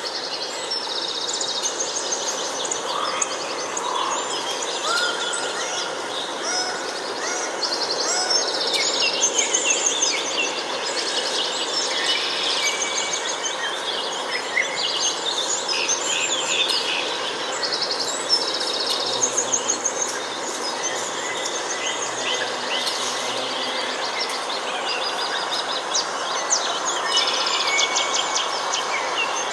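Several birds singing at once in a forest, a continuous chorus of overlapping chirps and rapid trills over a steady background hiss.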